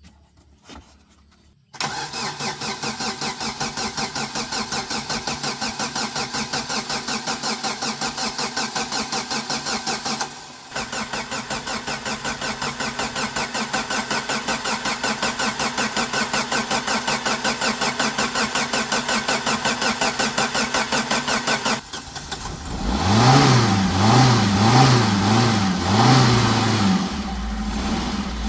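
Car engine cranked on the starter motor with an even fast pulsing, for about eight seconds, then after a short break for about eleven seconds more, before it fires. It is then revved up and down about four times and settles to idle. The long cranking shows an engine that is hard to start.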